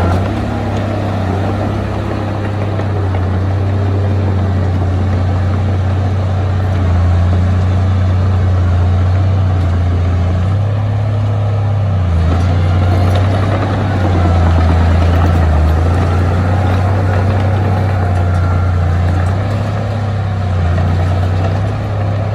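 Heavy diesel engine of earthmoving machinery running steadily, a deep low hum whose level swells and eases slightly.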